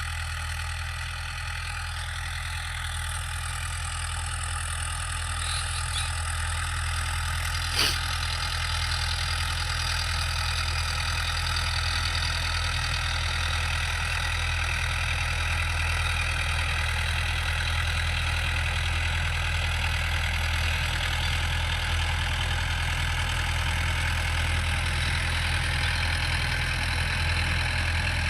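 Tractor engine running steadily, growing slightly louder over the first several seconds, with a single sharp knock about eight seconds in.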